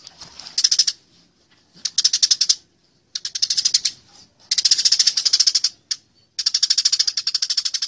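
Eurasian tree sparrows giving the fast, harsh chatter of fighting birds: bouts of rapid high chirps, about a dozen a second, broken by short pauses, with a longer bout near the end.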